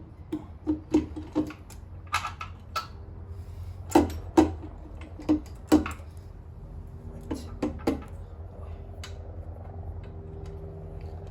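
Tools and metal engine parts clinking and knocking as they are handled, about a dozen sharp hits in the first eight seconds, over a steady low hum.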